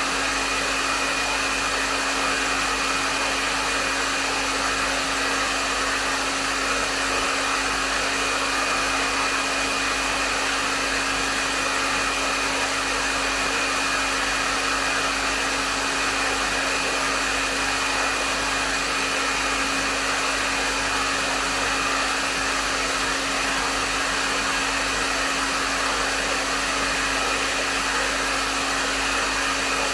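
Hair dryer blowing steadily, a continuous rush of air with a steady motor hum and a faint high whine, unchanging throughout.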